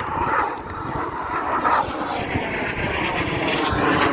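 Aircraft engine droning and growing steadily louder as a display plane approaches overhead.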